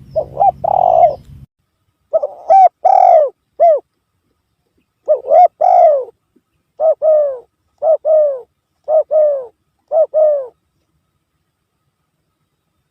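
Spotted dove cooing: a recorded lure call repeating short phrases of two or three descending coo notes. The phrases stop about ten seconds in. A faint low hum under the first calls cuts off after about a second and a half.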